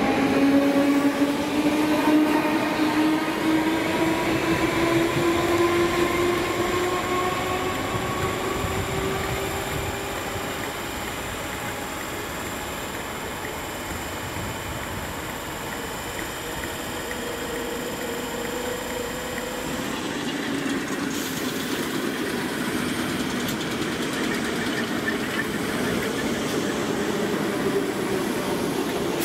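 Merseyrail electric multiple unit pulling away from the platform, its traction motors whining in a steadily rising pitch as it accelerates and fades over about ten seconds. About two thirds of the way in, a broader rumble of rail noise builds again.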